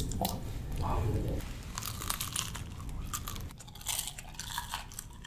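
Close, crisp crunching and chewing as crispy fried nasi lemak toppings are bitten into: a string of sharp crackles.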